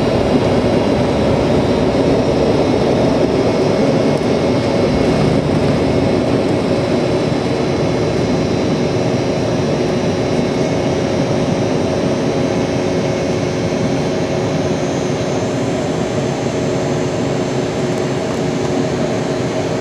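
Airplane engines running at takeoff power as the plane lifts off and climbs: a loud, steady drone with several humming tones, easing very slightly toward the end.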